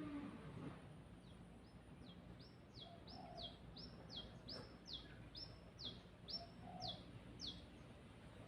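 A bird singing a run of about a dozen high, short notes, each sliding downward in pitch, at about two to three a second.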